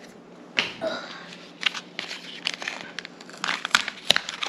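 Foil wrapper of a Pokémon Scarlet and Violet booster pack crinkling in irregular crackly bursts as it is handled and opened, busiest in the second half.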